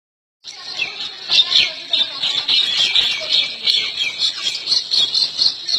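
Birds squawking: rapid, overlapping high-pitched calls that start about half a second in and keep going.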